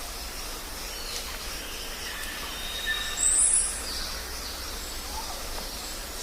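Jungle ambience: a steady hiss of forest background with scattered bird calls, and one loud, high-pitched call lasting about half a second around three seconds in.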